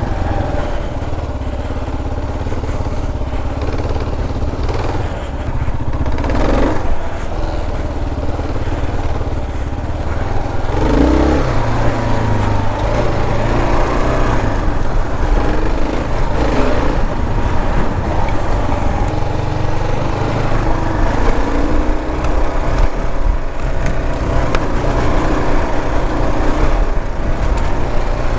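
Kawasaki KLR650's single-cylinder four-stroke engine running as the motorcycle is ridden along a dirt trail, its pitch rising and falling with the throttle, most noticeably in the middle stretch.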